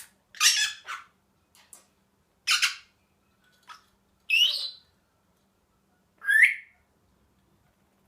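Senegal parrot giving four loud, short squawks about two seconds apart, the last two with a sweep in pitch, with a few soft clicks and chirps between them. The owner takes these calls for the sound of a happy bird.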